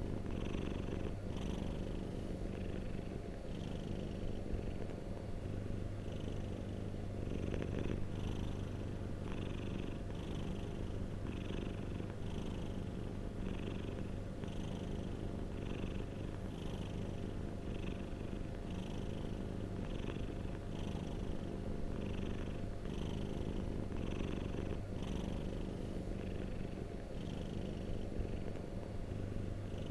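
Domestic cat purring steadily, recorded close up: a continuous low rumble that swells in a regular rhythm with each breath, about once every three-quarters of a second.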